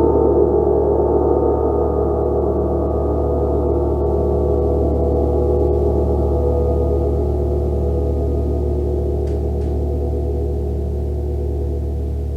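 Gong ringing on after a strike: a dense wash of many overlapping tones, slowly dying away with no new strikes.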